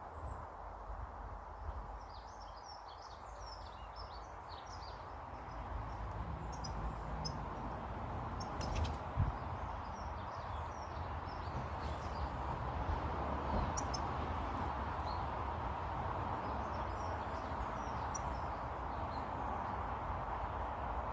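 Small garden birds chirping: a quick cluster of short high calls a few seconds in, then scattered single chirps. A steady hiss and low rumble lie underneath, with a few sharp clicks.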